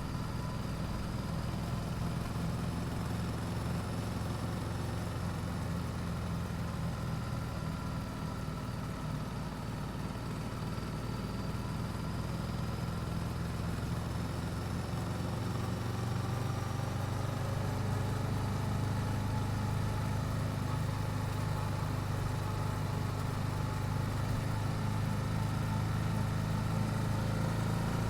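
Yamaha YZF-R7's parallel-twin engine on its stock exhaust, running steadily at low revs, its pitch drifting gently and growing a little louder about halfway through.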